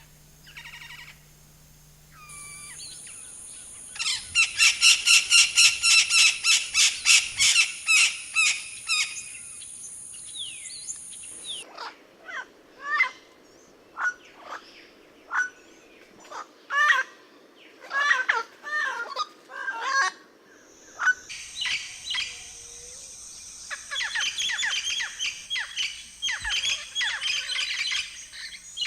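Wild birds calling, in three different recordings one after another. First a loud, fast chattering run of repeated notes, then separate short whistled notes, then another rapid run of notes.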